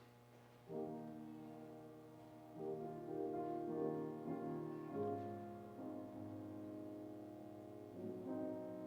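Slow keyboard music of held chords that change every second or two, starting about a second in.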